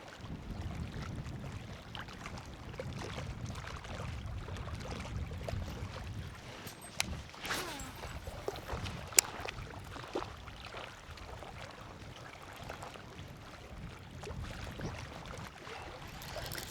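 Wind buffeting the microphone, a steady low rumble, with a few faint clicks and one sharp tick about nine seconds in.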